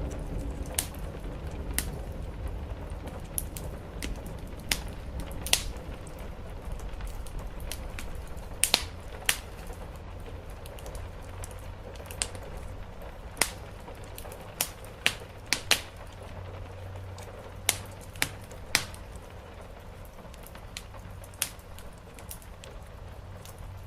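Wood fire crackling: irregular sharp pops and snaps, a few seconds apart or in quick clusters, over a low rumble that eases off during the first seconds.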